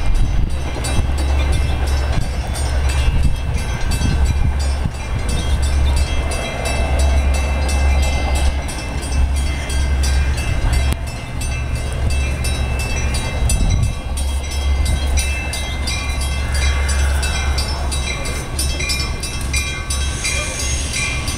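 Metra diesel commuter train running through the station: a steady low engine drone with wheel and rail clatter, and rain clicking throughout.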